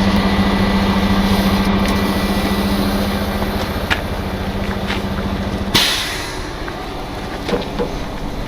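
Heavy diesel truck engine idling with a steady low hum. About six seconds in a short, sharp burst of noise cuts in, after which the hum is quieter.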